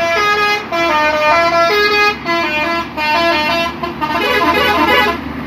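Musical vehicle horn playing a tune: a string of held notes that step up and down in pitch, turning to a quick wavering warble about four seconds in.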